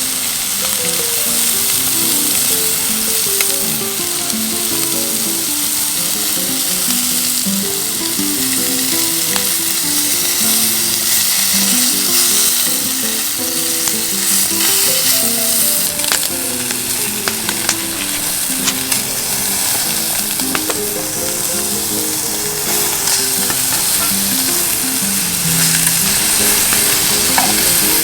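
Food sizzling steadily as it fries over a campfire, with a gentle melody of background music over it.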